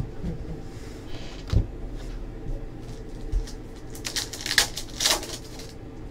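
Trading cards being handled on a table: a few soft knocks, then about a second of cards rustling and sliding against each other past the middle, over a steady room hum.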